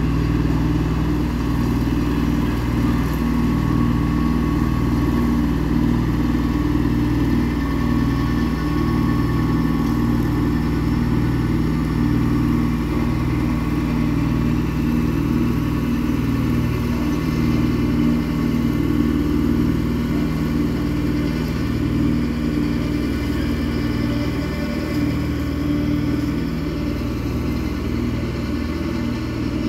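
Kubota L2501 tractor's diesel engine running steadily, with the rotary cutter (bush hog) it drives running on its freshly changed blades.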